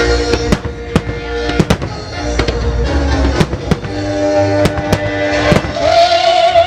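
Fireworks bursting with about a dozen sharp bangs over loud show music of musical melodies played over loudspeakers; a held, wavering sung note comes in near the end.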